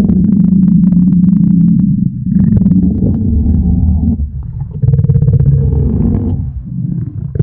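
Reconstructed T-Rex vocalisation: a deep, low rumbling in about four long swells of one to three seconds each, the kind of low-frequency sound scientists propose in place of the movie roar.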